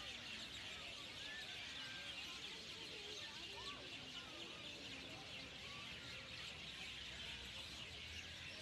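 Faint outdoor ambience of scattered short bird chirps and calls over a steady high-pitched hiss.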